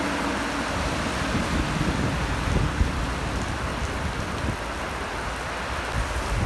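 Heavy rain falling steadily, with strong wind buffeting the microphone in an uneven low rumble.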